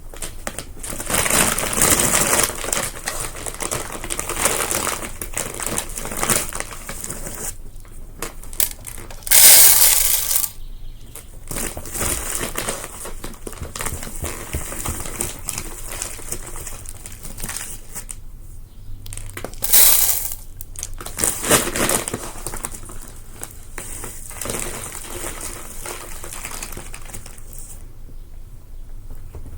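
Birdseed being poured and handled in a crinkling plastic seed bag, a continuous rustle with louder bursts about ten seconds in and again about twenty seconds in.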